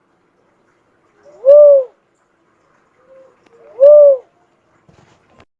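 Cuckoo-dove (burung uncal) cooing: two loud coos about two seconds apart, each rising then falling in pitch and led by a soft short note. A few faint clicks near the end.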